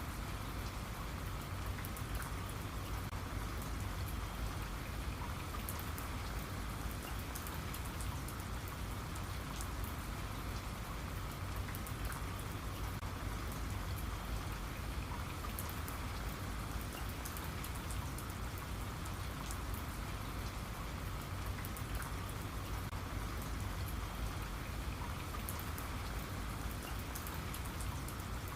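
Steady rain falling, with a dense patter of drops striking a surface.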